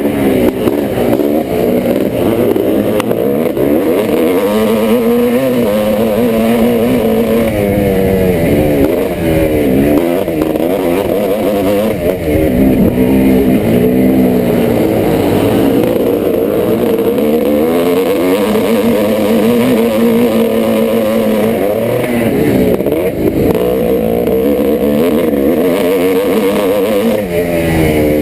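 1986 Yamaha YZ490's single-cylinder two-stroke engine running hard under race load, its pitch rising and falling over and over with throttle and gear changes.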